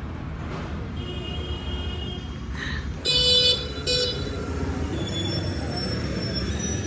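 Vehicle horn sounding twice, a half-second toot about three seconds in and a short one just after, over the steady rumble of road traffic.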